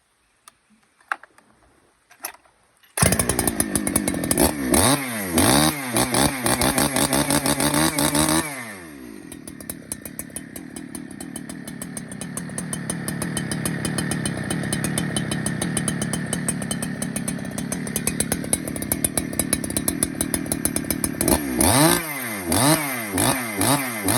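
Husqvarna 281 XP two-stroke chainsaw cutting in suddenly about three seconds in and revved hard in quick bursts, then running lower and steadier from about eight seconds, and revved in bursts again near the end.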